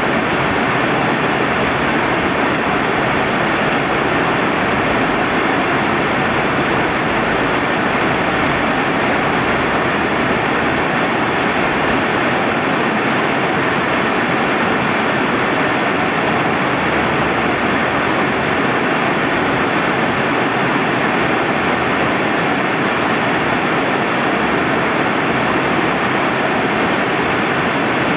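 Steady rain falling by a flowing river: an even, unbroken hiss of rainfall and running water.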